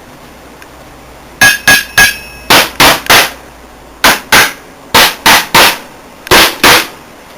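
About thirteen loud, sharp cracks from the flood-damaged CRT television, coming in uneven groups of two and three over about five seconds. The first few have a short ringing tone.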